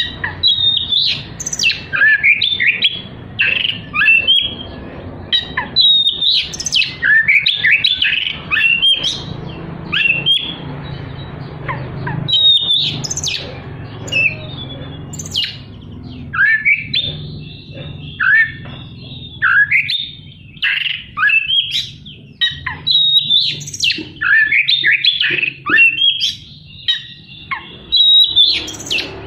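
Oriental magpie-robin singing a fast, varied song of sharp, rapidly sweeping whistled notes and chirps, broken by a couple of brief pauses.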